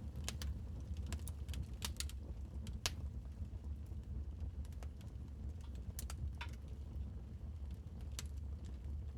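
Wood fire crackling in a fireplace: irregular sharp pops and snaps over a low steady rumble of the burning fire.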